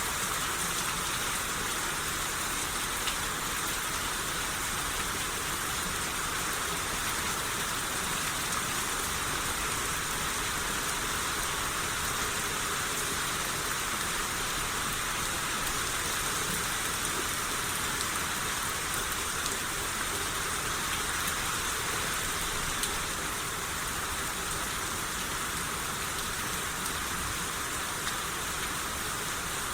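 Steady rain shower falling, an even hiss of rain with faint drop ticks and no breaks.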